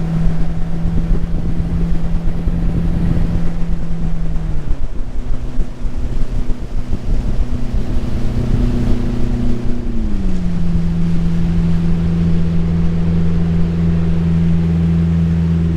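Jet boat's outboard jet-drive motor running underway. It steps up to a higher engine speed about four seconds in and eases back down to its earlier steady note about ten seconds in.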